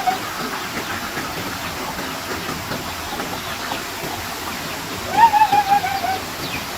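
Steady rushing noise like running water, with a single drawn-out call about five seconds in that rises and then slowly falls over about a second.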